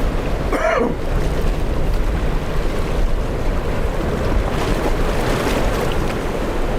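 Strong wind buffeting the microphone over the rush of rough ocean surf, a steady loud noise throughout. A brief wavering, pitched cry sounds about half a second in.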